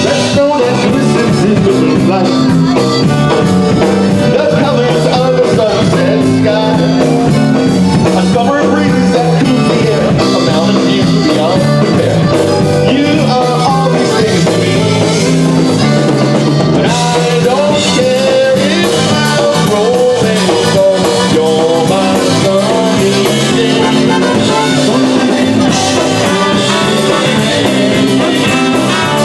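Polka band playing a song with a steady beat on drum kit, bass and guitar, with singing over it at times.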